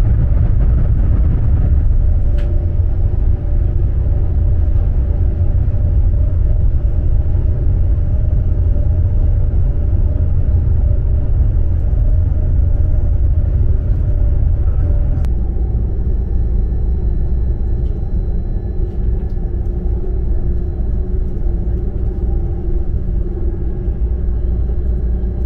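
DB ICE 3 high-speed train running, heard from inside a passenger car: a steady low rumble with faint humming tones over it. About fifteen seconds in, the higher hiss drops away.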